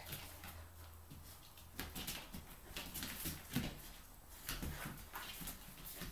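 A chow chow and a Samoyed play-fighting: irregular scuffling and short clicks and knocks of paws and claws, with occasional dog sounds.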